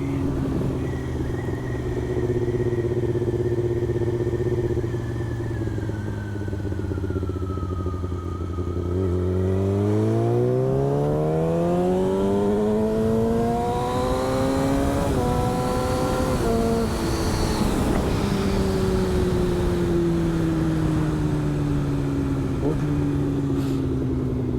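Motorcycle engine at a steady cruise, then revving up in one long rising pull about nine seconds in. It steps once around the middle and then eases off, with the revs falling slowly. Steady rushing wind noise runs underneath.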